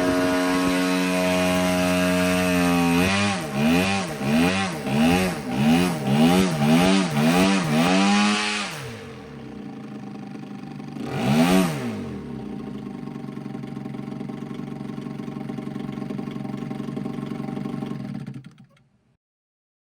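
Small UAV fuel-injected engine, fed by an electronically regulated fuel pump, running steadily. It is then blipped up and down in a quick series of rapid throttle changes, settles to idle, is blipped once more, and idles until it shuts off near the end.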